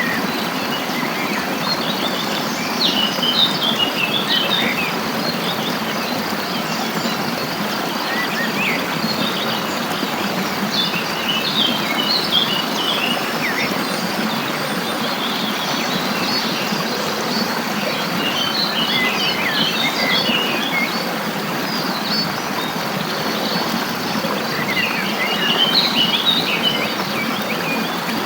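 Songbirds singing in short bursts of quick high chirps about every seven or eight seconds, over a steady rush of flowing stream water.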